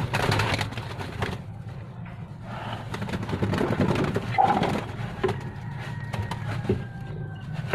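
A brush scrubbing in scratchy bursts of strokes, one in the first second and more from about two and a half to five seconds in, over a steady low cooing of pigeons.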